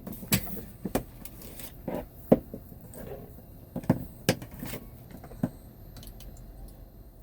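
Irregular sharp knocks and clicks, about a dozen of them, over low steady background noise, thinning out near the end.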